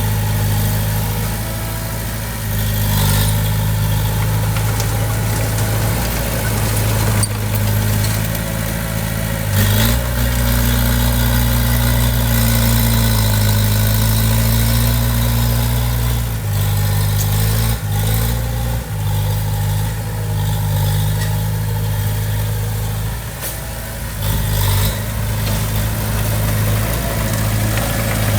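Heavy-equipment diesel engine running steadily under changing load. Its note rises about ten seconds in and settles back a few seconds later, with a few brief metallic knocks.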